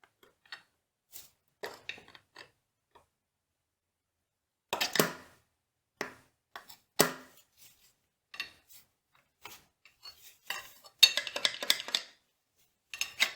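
Metal tools and machine parts clinking and clattering in short, irregular bursts as a gearbox is worked on by hand, the loudest clatter coming about eleven seconds in.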